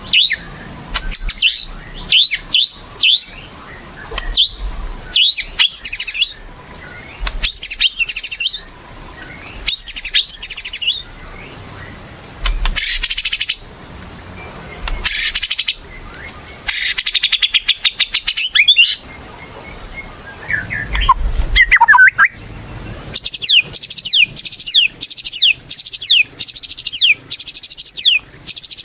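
White-rumped shama (murai batu) singing energetically: a varied string of loud whistled phrases and chatters with short pauses between. Near the end it breaks into a fast run of repeated downward-sweeping notes, several a second.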